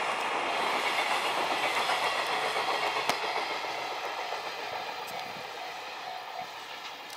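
Freight train container wagons rolling past on the rails, wheels clicking over the rail joints with one sharp click about three seconds in. The rumble fades steadily in the second half as the train draws away.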